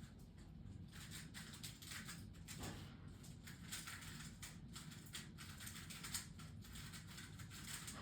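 Pet budgerigars making faint, rapid clicking and scratching sounds.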